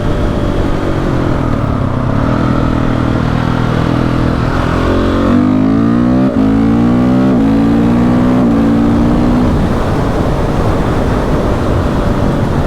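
KTM 690 SMC R single-cylinder engine pulling hard, its note rising and then dropping sharply at two gear changes in the middle. Near the end the note fades as the throttle closes and the bike coasts.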